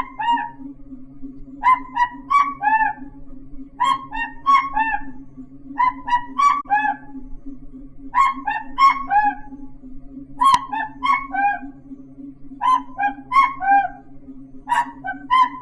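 A bird-like call imitated by voice: a phrase of four or five short honking notes, each falling at its end, repeated about every two seconds, eight times in all. A steady low hum runs underneath.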